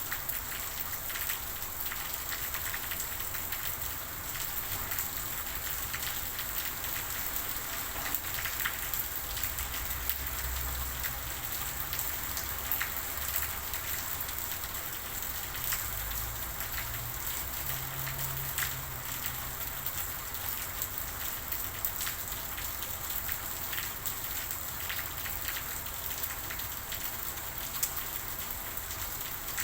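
Steady rain falling, an even hiss dotted with many sharp ticks of individual drops striking.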